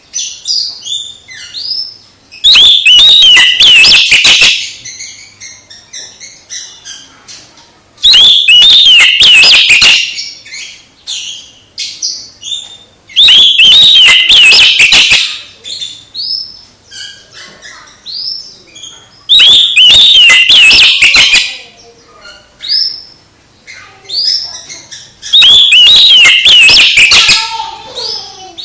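Oriental magpie-robin (kacer) singing: five loud bursts of rapid, varied whistled phrases, each about two seconds long and coming about every five to six seconds, with softer single chirps and whistles between them.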